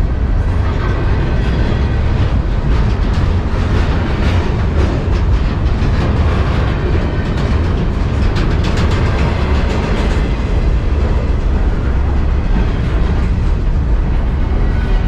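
Double-stack intermodal freight cars rolling past at speed: a steady, loud rumble of wheels on rail, with some clattering in the middle.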